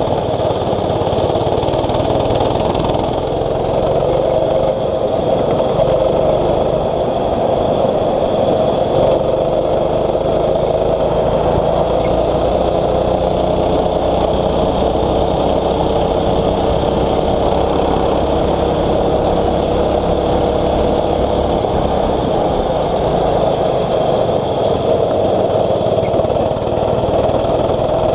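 Single-cylinder four-stroke 6.5 hp kart engine running continuously on track. Its note rises and falls gently as the throttle changes.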